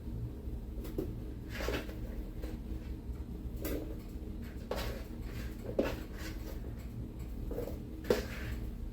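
Pre-cut onions and bell peppers being added to a blender jar: scattered soft knocks and rustles from handling the containers, over a low steady hum.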